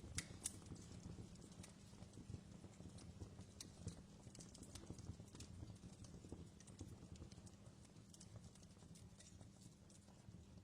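Faint crackling wood fire: scattered sharp pops and snaps, denser in the first second, over a steady low rumble.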